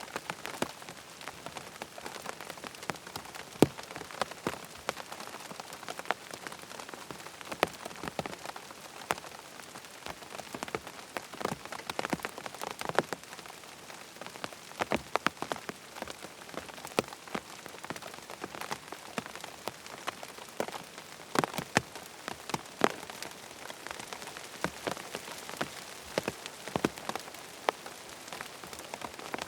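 Rain falling on a tent: a steady patter with many separate heavy drops striking the fabric at irregular intervals.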